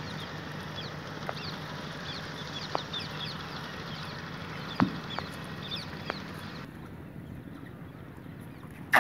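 Birds chirping in quick repeated calls, which stop about two-thirds of the way through, with a few sharp knocks in between, the loudest about five seconds in.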